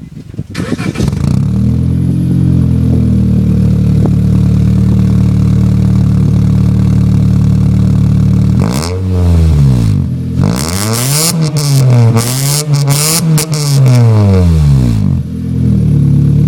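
2003 Honda Civic EX's four-cylinder VTEC engine with an aftermarket Magnaflow exhaust starts about a second in and settles to a steady idle. From about halfway it is given several quick throttle revs that rise and fall in pitch, then drops back to idle.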